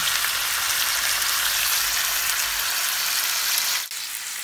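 Chicken drumsticks with onion and garlic sizzling in oil in a frying pan, a steady hiss. Just before four seconds in the sound cuts out for an instant and comes back a little quieter.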